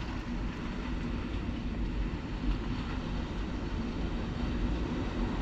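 Thunderstorm noise: a steady low rumble with a faint hiss above it.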